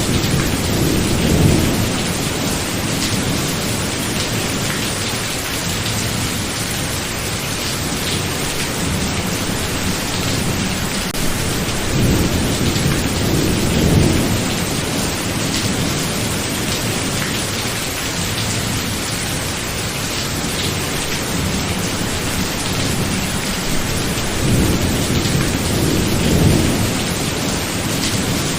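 Steady heavy rain during a thunderstorm, with low thunder rumbling three times, roughly every twelve seconds.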